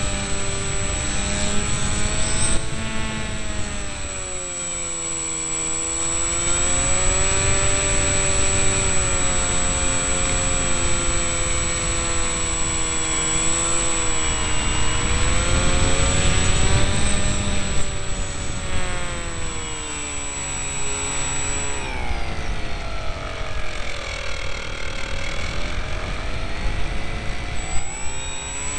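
Electric motor and propeller of an RC delta-wing model, heard from a camera carried on the model: a steady whine whose pitch rises and falls slowly several times, over rushing wind noise. A thin high whistle runs alongside most of it and drops out for several seconds near the end.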